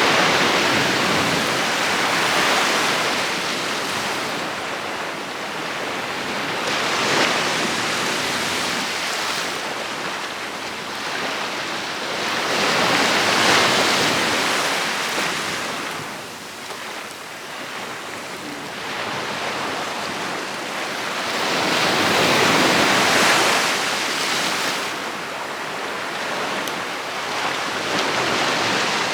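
Ocean surf breaking and washing on the shore, swelling and fading in slow surges every several seconds as each wave comes in.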